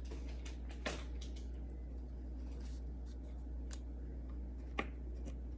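Faint clicks and light handling noises from small vials and syringes being set out, with sharper clicks about a second in and near the end, over a steady low hum.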